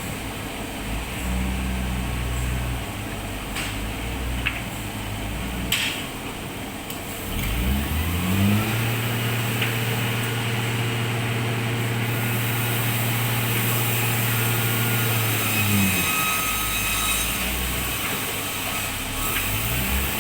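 Sawmill machinery running, with a motor winding up in pitch, holding a steady hum, then winding back down, and a few knocks over it.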